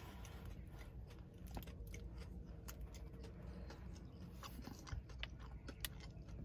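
A person chewing a bite of a chocolate-coated crispy protein bar: faint mouth sounds with scattered small crunches and clicks.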